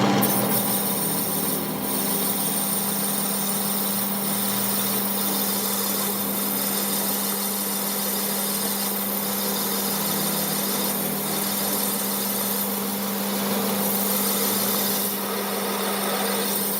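A workshop machine running steadily, with a constant hum under an even rushing noise.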